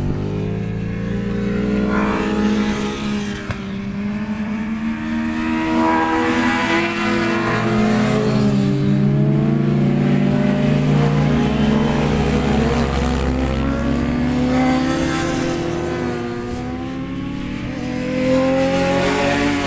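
Several racing motorcycle engines running hard on a circuit at once, their overlapping notes rising and falling as the bikes accelerate, shift gear and pass.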